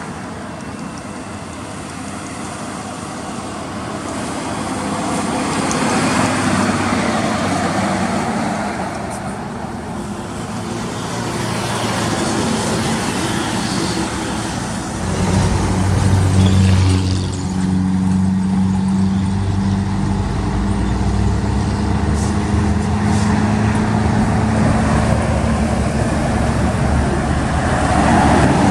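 Road vehicles passing. From about halfway through, a heavy vehicle's engine runs steadily close by, with a low drone.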